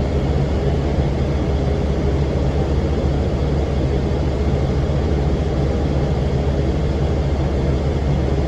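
Cummins ISM diesel engine of a 2006 NABI 40' LFW transit bus running with its engine cooling fan on: a steady, unbroken drone with a deep hum under a rushing fan noise.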